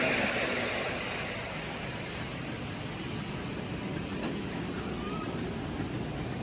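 Miniature passenger train running, its sound fading over the first couple of seconds and settling to a steady rumbling hiss.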